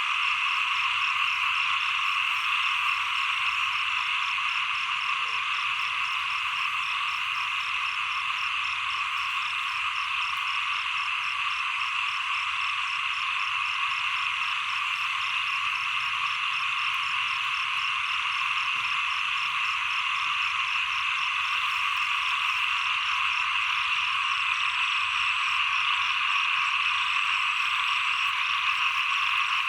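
Dense, steady chorus of many small frogs (khiat) calling at once without a break, with a fast, even pulsing above the main chorus.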